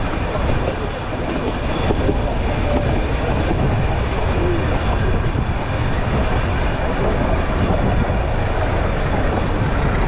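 Nilgiri Mountain Railway metre-gauge train running, heard from a window of the moving coach: a steady, dense running noise with wind buffeting the microphone. A thin high whine slowly rises in the second half.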